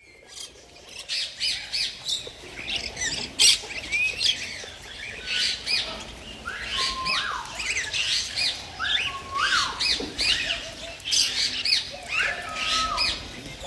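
Birds chirping and squawking in many short, overlapping calls. Every few seconds one call starts low and sweeps steeply up in pitch.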